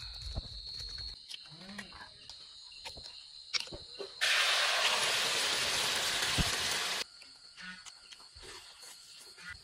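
Crickets trilling steadily, then a few seconds in a loud, even sizzle of a cricket-and-egg mixture frying, lasting about three seconds and cut in and out abruptly.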